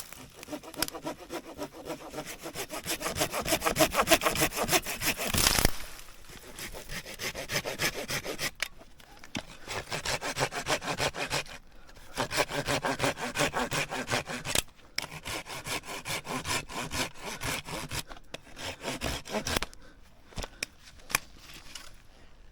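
Hand saw cutting firewood, in fast back-and-forth strokes. The strokes come in several runs with short pauses between them, loudest in the first run, and stop a couple of seconds before the end.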